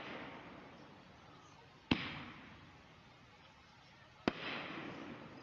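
Aerial firework shells bursting in the air: two sharp bangs about two and a half seconds apart, each trailed by a fading hiss.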